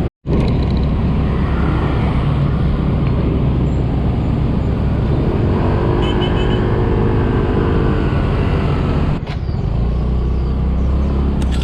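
A Yamaha scooter of about 125 cc being ridden in city traffic: steady engine and wind noise on the rider's camera microphone, with surrounding traffic. The sound cuts out for a moment just after the start, and a pitched tone from the traffic rises for a few seconds around the middle.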